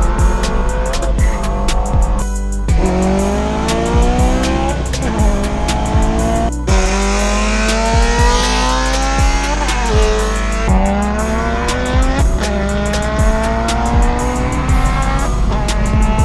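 Turbocharged Volkswagen Golf GTI's four-cylinder engine pulling hard under full throttle, heard from inside the cabin, revs climbing and dropping back at each upshift several times. Background music with a steady beat plays under it.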